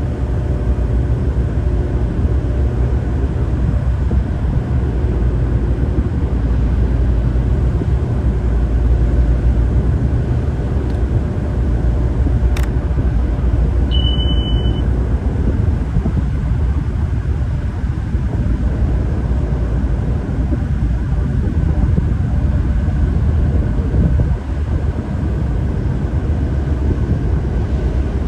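Tugboat engine running with a steady low rumble. A single sharp click about twelve seconds in and a brief high beep a couple of seconds later.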